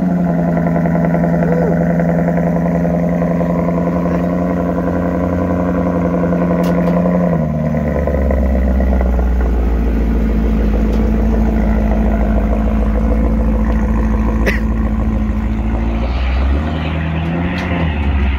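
2013 Maserati GranTurismo MC's 4.7-litre V8 idling just after a cold start. It holds a high, steady fast idle, then settles to a lower, deeper idle about seven seconds in, with a short rise in pitch near the end.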